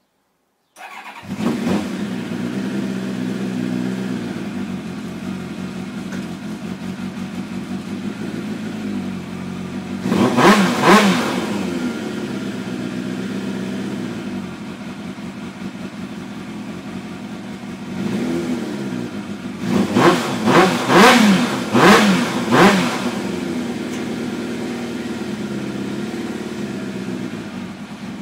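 Kawasaki Ninja ZX-7R 750 inline-four motorcycle engine starting about a second in and running on its freshly cleaned carburettors, blipped twice about ten seconds in and then revved in about five quick blips around twenty seconds in, settling back to idle between.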